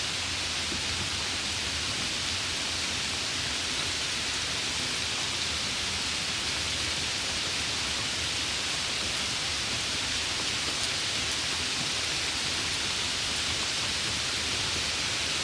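Steady rain falling, an even hiss strongest in the upper range, with a few faint drop ticks.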